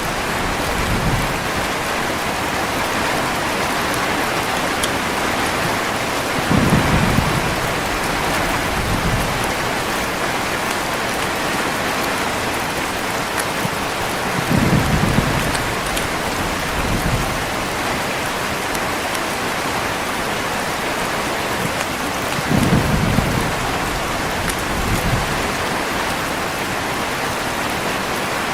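Heavy, steady rain hissing, with short low rumbles of thunder coming back every few seconds, the strongest about every eight seconds.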